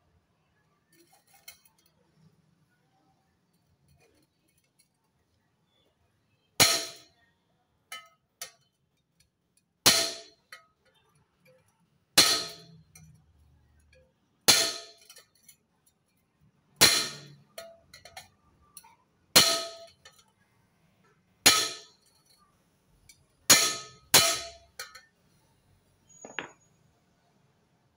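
Hammer blows on metal, about nine sharp ringing clangs every two seconds or so with faint taps between, as a dent is knocked out of a motorcycle exhaust.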